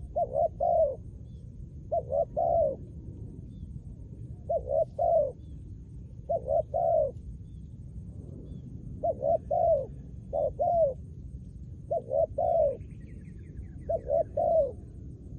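Spotted dove cooing in a repeated phrase of three or four low coos, about eight phrases one to two seconds apart.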